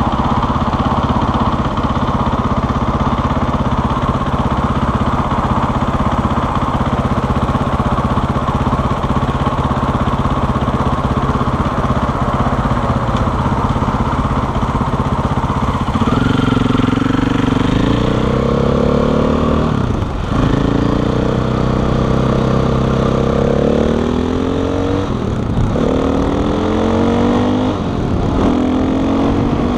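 KTM 500 EXC's single-cylinder four-stroke engine idling steadily for a little over half the time, then pulling away and accelerating through the gears: the pitch climbs in repeated sweeps, each cut by a brief drop at a gear shift, three shifts in the last dozen seconds.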